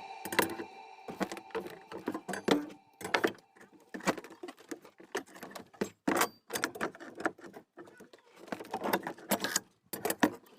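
Irregular light clicks and knocks, coming in clusters with short pauses between them.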